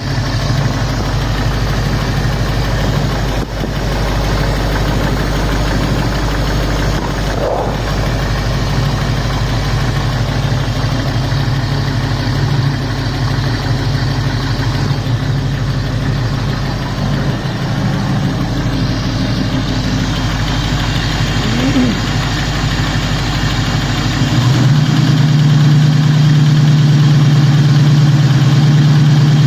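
Ford 351 Cleveland V8 idling steadily, with a ticking from the passenger side of the engine. About 24 seconds in the sound changes character and gets a little louder.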